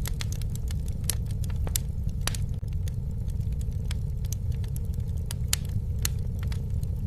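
Campfire crackling and popping, with frequent sharp snaps scattered irregularly over a steady low rumble.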